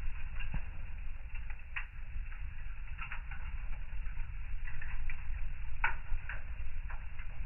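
Wood fire burning in a fireplace: a steady low rumble of flame with irregular crackles and pops of the burning logs, a few sharper pops scattered through.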